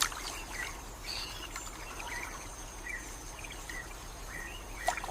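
Scattered short bird chirps over a faint, steady background hiss.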